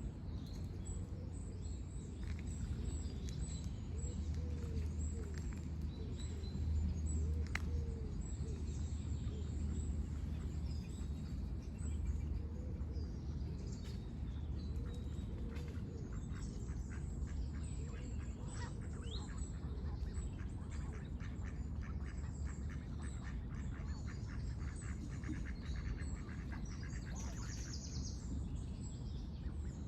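Mixed bird calls: small birds chirping high and often, with repeated lower calls from ducks quacking, over a steady low background rumble.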